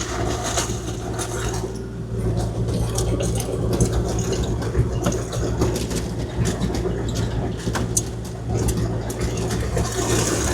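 Kubota KX040-4 mini excavator's diesel engine running steadily, with gravel crunching and scraping as it is spread, in many small irregular clicks and knocks.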